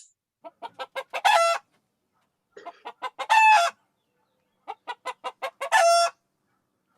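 Hen cackling: three phrases, each a run of short quick clucks that speed up into one long drawn-out call.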